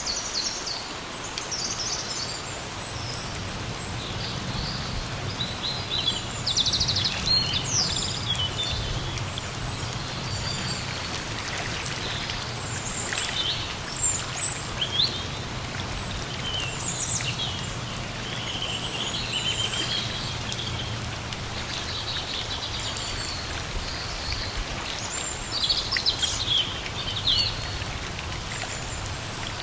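Steady rain falling in a forest, with songbirds chirping and calling many times over it.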